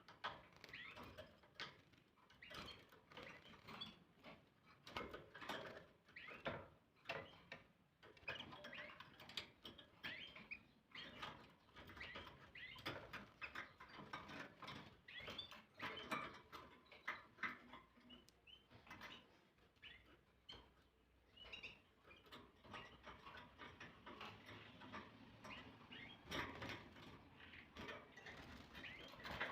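Faint, irregular pattering and light splashing of a canary bathing in a shallow water dish, flicking water with its wings and body.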